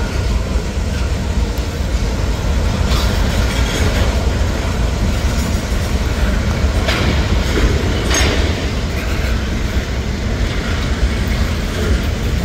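Freight train tank cars and boxcars rolling past: a steady rumble with wheels clacking over the rail joints, with sharper clacks about three, seven and eight seconds in.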